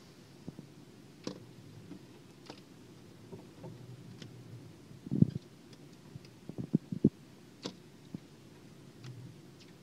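Mountain bluebird fluttering at and pecking a car's side mirror: scattered sharp taps, with a short cluster of duller knocks a little past halfway.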